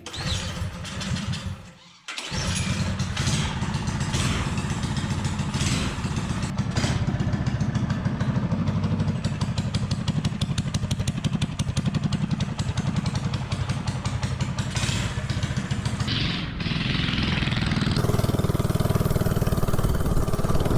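Small single-cylinder 79cc LCT snowblower engine on a Coleman CC100X mini bike, running with J-B Weld in place of its head gasket. It runs, cuts out briefly about two seconds in, then runs steadily again, with a rising hiss in the last few seconds.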